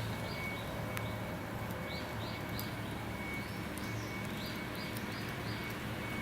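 A small bird chirping over and over: short, high chirps, about two or three a second.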